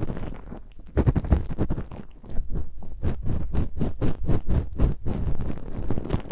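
Close-up ear-cleaning sounds: an ear pick scratching and scraping inside an ear in quick short strokes, several a second, thickest in the middle.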